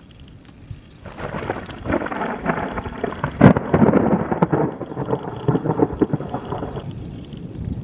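A crackling peal of thunder starting suddenly about a second in, loudest around the middle, and ending after about six seconds.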